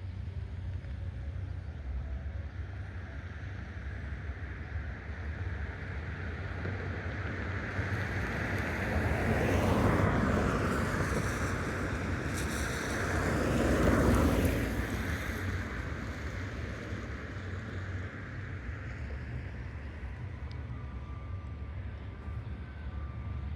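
Vehicles passing along a street over a steady low traffic rumble, their tyres hissing on pavement still wet from the night's rain; the noise swells to two peaks a few seconds apart and then fades away. A faint repeated beeping can be heard near the end.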